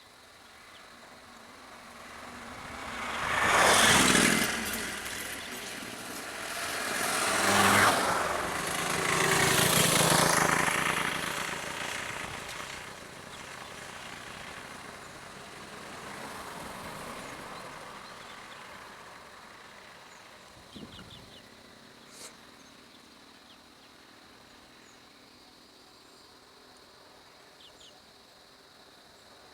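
Road vehicles passing close by, three loud swells of engine and tyre noise in the first ten seconds or so, then a quieter steady rumble with a couple of sharp ticks.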